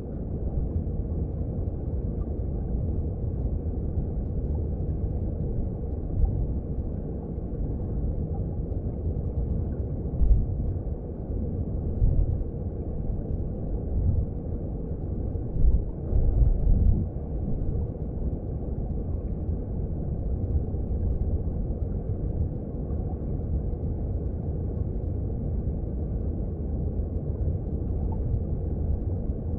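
Underwater sound of a mountain stream heard through a hydrophone: a steady low rumble of flowing water, with irregular deeper surges a few times.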